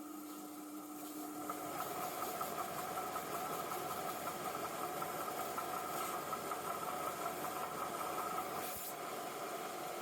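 A workshop power tool's motor running steadily with a constant whine, building up over the first couple of seconds.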